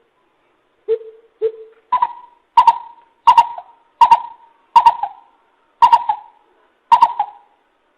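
Coucal (bìm bịp) hooting: a series of short, deep hoots, two lower ones about a second in, then about one every 0.7 s at a higher pitch, each note opening with a sharp click.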